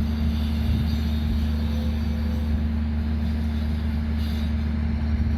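Diesel locomotive engine running with a steady low hum.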